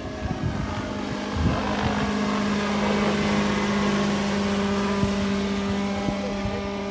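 GT15HZ two-stroke gasoline engine of a 700-size AS350 Écureuil scale RC helicopter running at a steady pitch in flight, getting louder about a second in and holding there.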